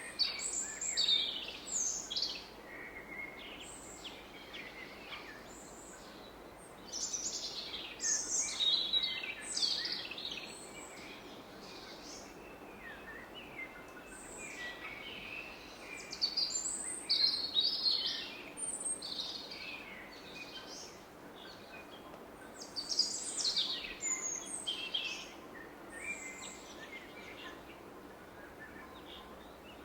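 Woodland birds singing in bouts of quick, high-pitched phrases over the steady rush of a distant river.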